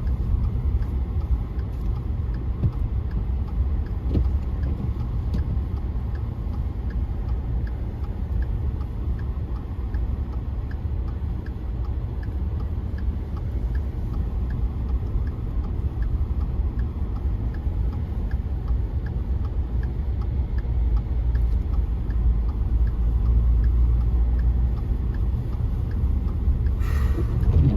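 Steady low rumble of a car driving on a snowy road, heard from inside the cabin, with a faint regular ticking over it and a short burst of noise near the end.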